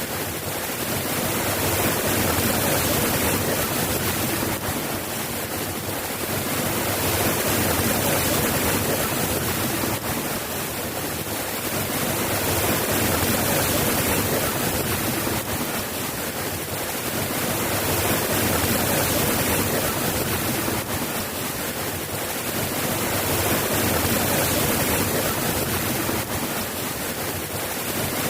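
Steady rain falling, an even hiss that swells and eases gently every five or six seconds.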